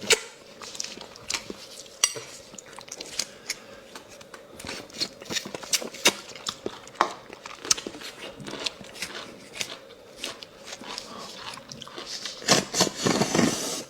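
Close-miked eating of bone marrow: sucking marrow out of the bones, with wet smacks and chewing in a run of short sharp clicks, and a louder, denser stretch near the end.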